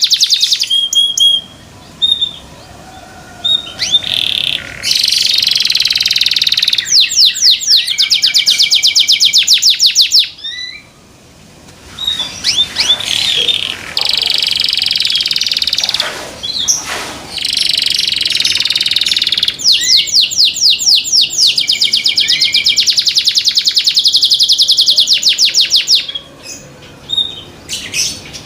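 Domestic canary singing: long, loud, high phrases of fast trills and rolled notes, about ten notes a second in the quicker trills, broken by a few short pauses.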